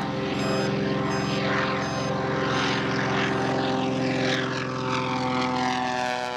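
Grumman J2F Duck biplane flying past, its radial engine and propeller droning steadily. The pitch drops over the last two seconds as it goes by.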